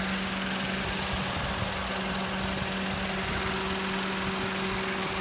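2017 Mitsubishi Mirage G4's 1.2-litre MIVEC three-cylinder engine idling steadily, heard up close in the open engine bay.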